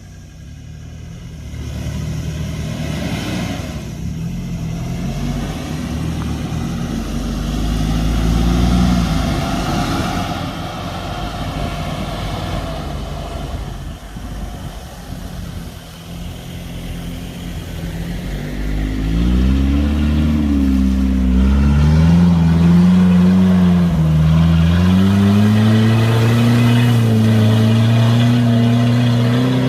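First-generation Isuzu Trooper's engine pulling under load off road. The engine pitch rises and falls with the throttle, and from about two-thirds of the way through the revs climb and the engine gets louder.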